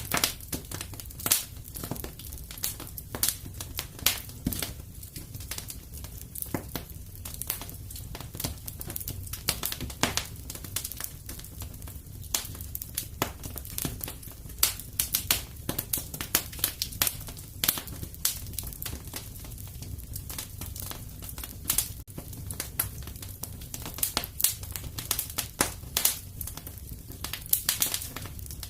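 Wood fire burning in a fireplace: irregular sharp crackles and pops, several a second with louder snaps scattered throughout, over a low steady rumble of the flames.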